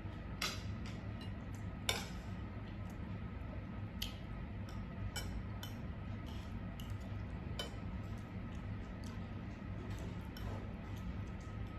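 Cutlery clinking and tapping against plates during a meal: scattered sharp clicks, the loudest about two seconds in, over a steady low hum.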